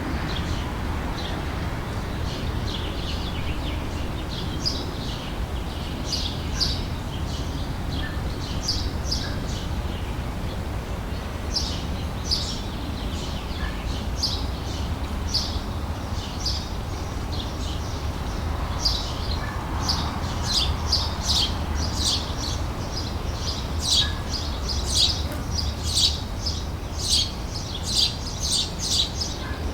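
Outdoor summer ambience: small birds chirping over a steady low background rumble, the chirps coming thicker and faster over the last few seconds.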